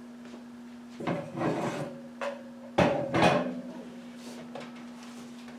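Kitchen handling sounds, a pan and cookware being moved: two rounds of scraping and clatter about two seconds apart, with a short tap between them, over a steady low hum.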